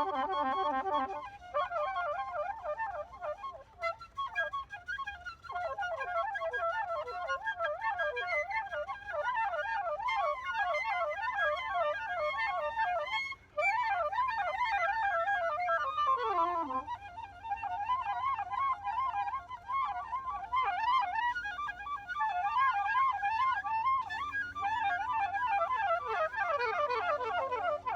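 Music: a flute-like wind instrument plays fast, trilling, ornamented runs, with a long falling slide about two-thirds of the way through. Fainter held lower notes sound underneath.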